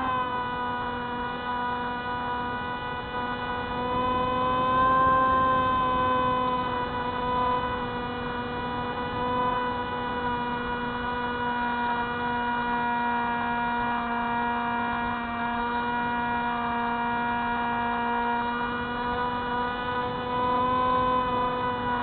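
Electric motor and propeller of a Spyhawk FPV model plane droning at a steady pitch in flight. The pitch drops as the throttle is eased back at the start and climbs again as it is opened up at the very end.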